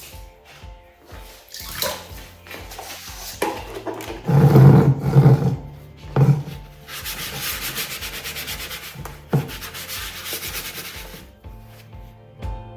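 Rapid back-and-forth scrubbing of a dirty kettle's outside during cleaning, over soft background music, with a louder handling noise a few seconds before the scrubbing starts.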